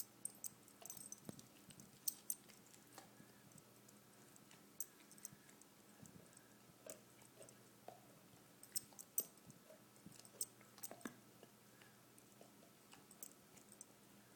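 A dog chewing on a bone: irregular gnawing with sharp clicks and crunches of teeth on bone, some of them a good deal louder than the rest.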